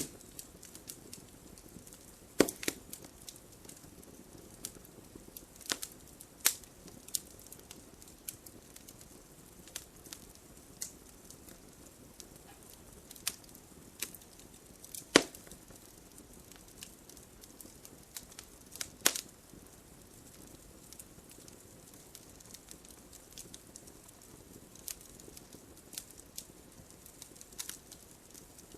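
Wood fire crackling: a low steady hiss with scattered sharp pops and cracks, the loudest about 2.5, 15 and 19 seconds in.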